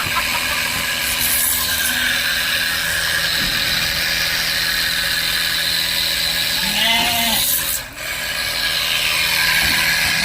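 Powered hose sprayer running steadily, with a low hum and the hiss of the spray, as goats are sprayed against external parasites. A goat bleats once about seven seconds in.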